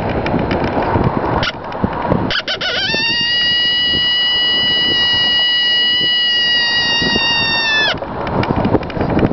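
Cow horn coyote howler call blown in one long, steady, high howl, scooping up into the note after a few short broken starts and dropping off sharply near the end. A rushing noise fills the seconds before and after the howl.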